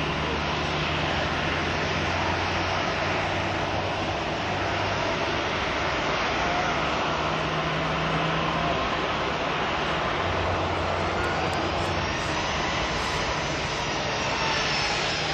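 Boeing 737-800 jet airliner's CFM56-7B engines running: a steady, loud rush of jet noise, with a faint sliding whine showing in the last few seconds.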